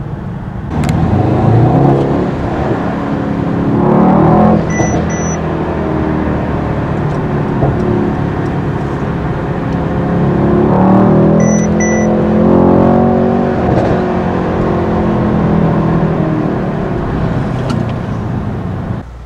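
Mercedes-AMG E63 S 4MATIC+'s twin-turbo V8 under way in Sport Plus mode, heard from inside the cabin, its note rising in pitch several times as the car accelerates and falling back between pulls.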